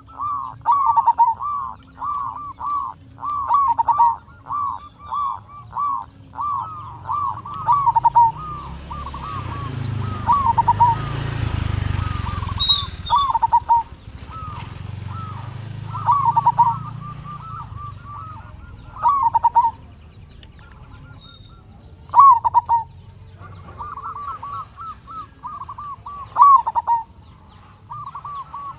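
Zebra dove (perkutut) calling: a fast run of short cooing notes, then scattered single coos, then another quick run near the end. A low rumble swells and fades in the middle.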